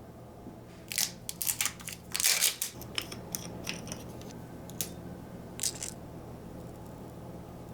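Kitchen handling sounds: a quick run of short clicks and scrapes about a second in, then a few single clicks.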